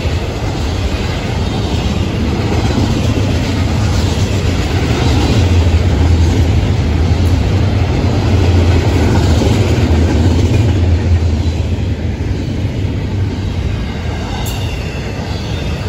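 Intermodal freight train rolling past at speed: steel wheels on the rails and the cars running by make a loud, steady low rumble, a little louder in the middle.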